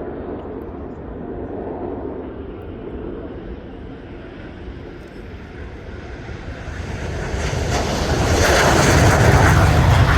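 Jet aircraft engine noise, a steady rumble for the first half that swells loudly from about six seconds in as a jet comes close, peaking near the end.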